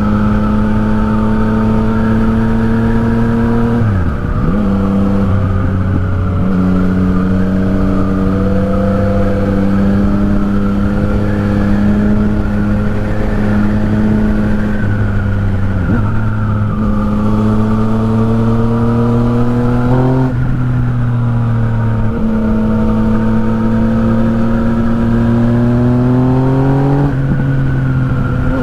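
Yamaha MT-09's three-cylinder engine through an Akrapovic exhaust while riding. The engine note climbs slowly under light throttle and drops sharply at gear changes: about four seconds in, around twenty seconds in and near the end.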